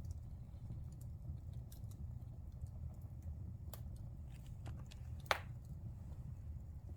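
Wood fire burning in a fireplace: a steady low rumble with scattered crackles and one loud pop about five seconds in.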